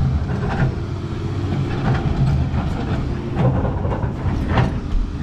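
Dirt bike engine running at a steady idle, with some irregular clatter over it.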